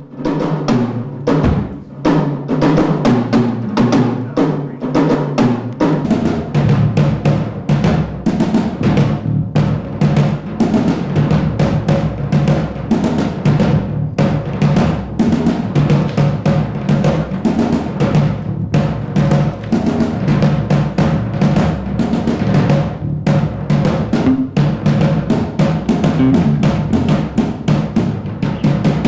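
Drum-led music: a fast, steady beat of drums and percussion over a bass line.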